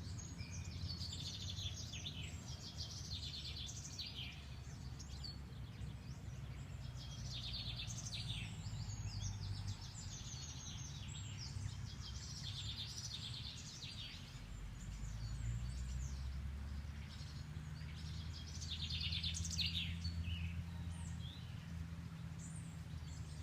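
Several songbirds singing and chirping in overlapping phrases, early-morning birdsong, over a steady low rumble.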